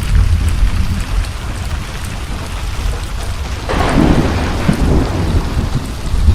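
Steady rain with deep thunder rumbling throughout, and a louder crack of thunder about three and a half seconds in that rolls off over a second or two.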